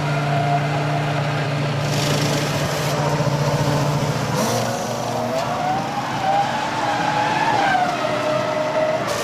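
Formula One cars' 3-litre V10 engines running at high revs, their pitch rising and falling with gear changes and throttle.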